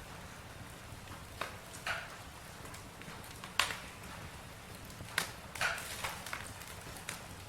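Campfire crackling: sharp pops of burning wood at irregular intervals, roughly one a second, over a low steady hiss, the loudest pop about halfway through.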